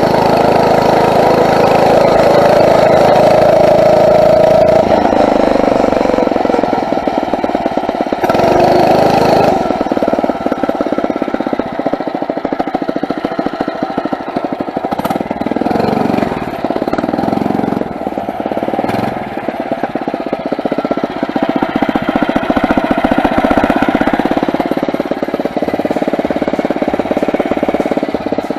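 Phatmoto four-stroke motorized bicycle engine running under way, its pitch rising and falling with the throttle. It is loudest in the first five seconds, then eases back a little.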